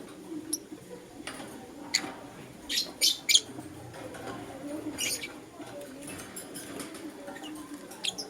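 Lutino lovebird chicks chirping in short, sharp, high-pitched calls, loudest in a quick cluster about three seconds in, over a low steady murmur.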